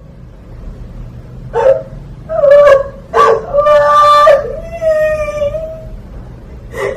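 A woman crying hard in grief: a run of about five drawn-out, high, wavering wails one after another, the longest near the middle.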